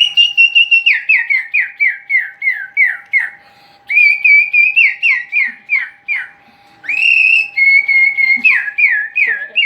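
Canary singing loudly in three whistled phrases. Each phrase opens with a held note and breaks into a rapid run of falling notes, about three a second.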